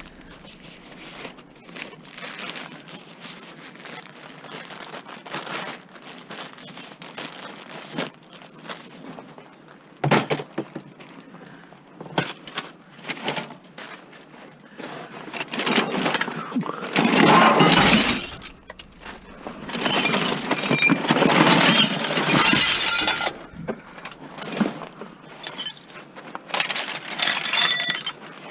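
Small pieces of scrap metal and junk clinking and rattling as they are rummaged through and sorted by hand, with scattered knocks and two longer, louder bouts of rattling a little after halfway.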